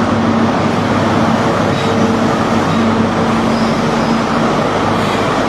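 Diesel passenger train running into the station platform, its engines giving a loud, steady drone with a low hum.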